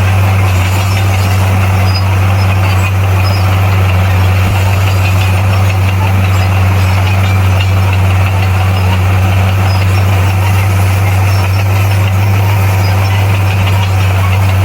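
Bulldozer's diesel engine running loud and steady, with a constant low drone that does not rise or fall.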